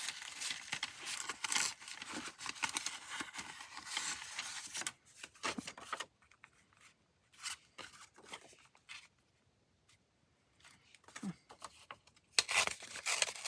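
Paper being handled, with dense rustling for the first five seconds, then a few light taps and rustles, and another stretch of rustling near the end.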